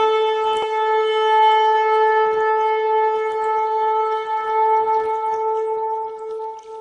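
A shofar (ram's horn) blown in one long, steady held note that fades out near the end.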